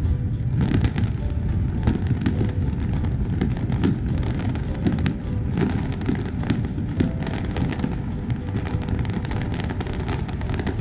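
Fireworks display: a dense, continuous run of bangs and crackles with music playing underneath.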